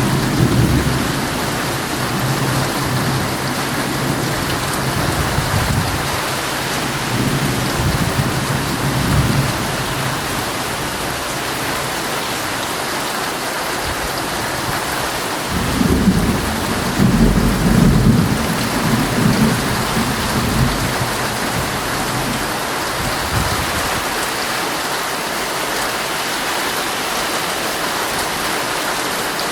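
Heavy rain drumming steadily on a tent, with rolling thunder rumbling low under it near the start and again past the middle.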